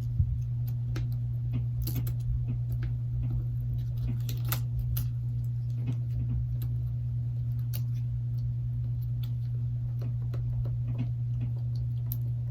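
Scattered light clicks and taps of small repair tools against a Galaxy Note 8's internal parts as the motherboard is worked loose, over a steady low hum.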